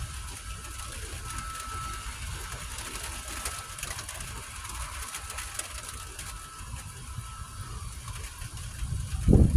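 Thunderstorm wind and rain: a steady hiss with a low rumble and faint ticking, and a louder low gust of wind or rumble near the end.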